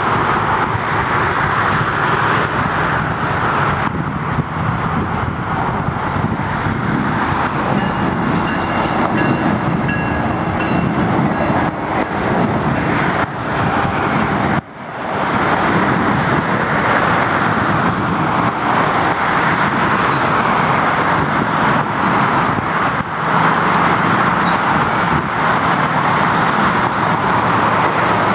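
GO Transit commuter train running at the station, a loud steady rumble of the train with faint high tones from about eight to twelve seconds in. The sound drops out briefly about halfway through.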